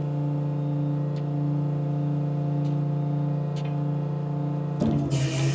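Electric-driven hydraulic pump of a garbage compactor truck running with a steady hum while the rear bin lifter moves, with a few faint clicks. Near the end the hum changes and a short burst of hiss comes in.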